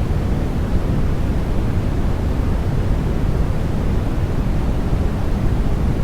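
Continuous sleep noise: an even, unchanging hiss weighted toward the low end, a deep rush with softer highs above it, like pink noise.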